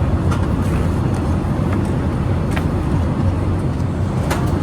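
Steady low cabin rumble of a Boeing 787-8 Dreamliner airliner, with a few faint clicks and taps over it.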